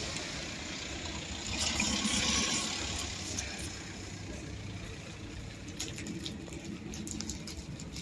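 Street traffic: a vehicle engine running steadily, with a louder rush of a passing vehicle swelling about two seconds in. Light scattered clicks follow in the second half.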